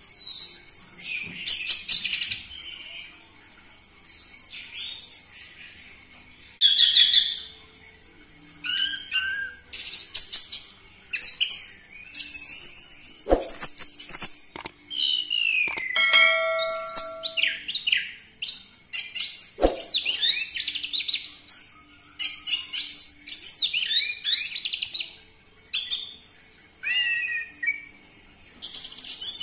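Orange-headed thrush (anis merah) singing loud, varied whistled phrases in quick bursts with short pauses between them.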